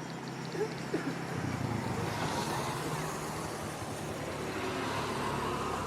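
Motor traffic noise: a steady low engine hum with a rushing sound that swells about two seconds in and again near the end.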